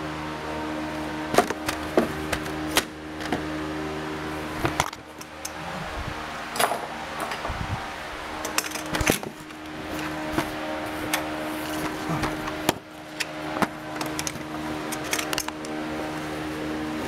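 Hand tools clinking and knocking against metal, a scatter of sharp clicks, over a steady background hum.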